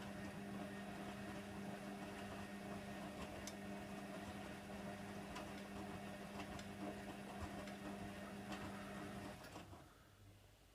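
Hoover Nextra HNWL7146 washer dryer running with a steady hum and scattered faint clicks, which cuts off suddenly near the end, leaving only a faint low hum.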